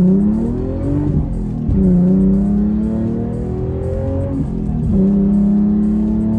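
2009 Infiniti G37S's 3.7-litre V6 under hard acceleration through a straight-piped exhaust with test pipes and a 370Z Nismo exhaust, climbing in pitch with each pull. The pitch falls sharply at upshifts about a second and a half in and again about five seconds in. The driver shifts at 5,000 rpm.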